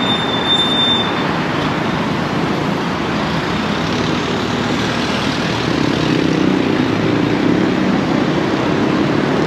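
Steady vehicle engine noise, with a low engine hum that grows a little louder about six seconds in.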